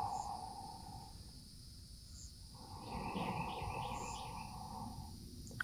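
Faint outdoor nature ambience: insects and birds chirping, with short high chirps every couple of seconds and a brief trill partway through. A soft hiss stops about a second in and comes back for about two seconds.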